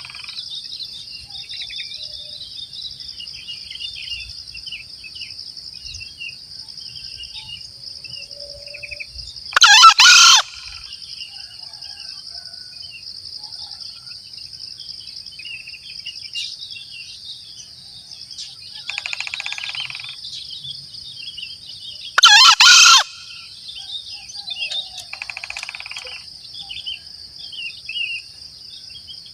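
Green junglefowl crowing: two short, loud crows about twelve seconds apart, over a steady high insect drone and scattered small bird chirps.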